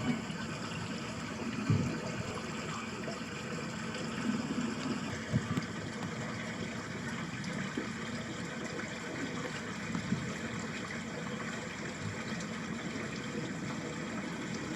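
Water flowing steadily in a small ditch, an even rushing trickle, with a few soft low buffets of wind on the microphone.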